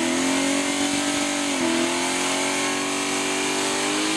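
Drag car's engine held at high, steady revs during a burnout, the note dipping briefly about a second and a half in and then holding again.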